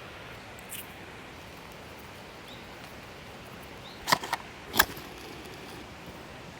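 Wood campfire burning with a steady hiss, a small pop just under a second in and three sharp, loud pops between four and five seconds in.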